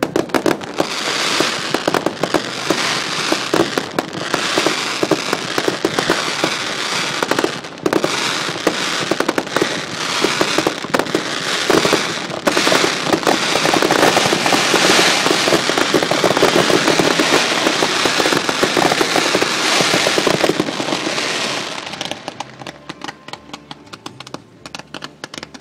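Set-piece fireworks crackling and popping in a dense, continuous barrage that starts suddenly, runs steadily for about twenty seconds, then thins out and fades near the end.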